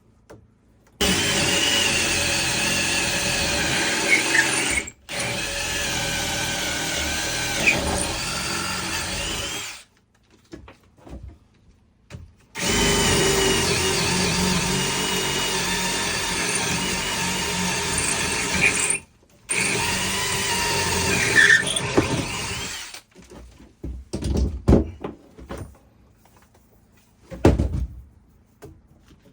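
Power drill running in four long stretches of several seconds each, with short breaks between them, during woodwork on a door frame. A few light knocks and clatters follow near the end.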